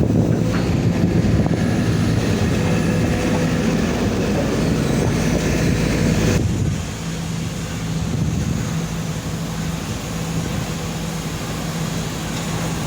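Excavator's diesel engine running steadily while it works. A little over six seconds in, the sound drops to a lower, quieter level.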